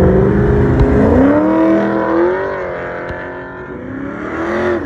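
Muscle car's engine under hard acceleration, its pitch climbing in two steps over the first couple of seconds, then sagging and climbing once more near the end as the car pulls away and fades.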